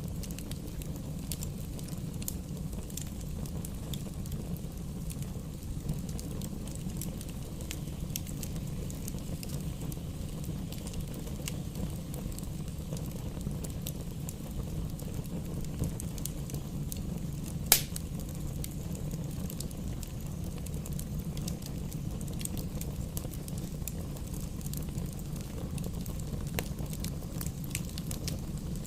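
Fire burning in a fireplace: a steady low rumble with scattered small crackles and one louder pop a little past the middle.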